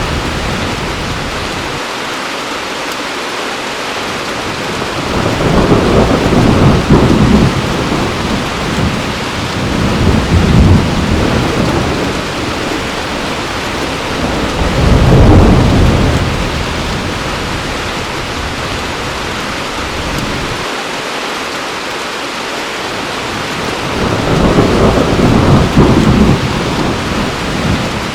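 Heavy rain falling steadily, with deep rolls of thunder that swell and fade four times.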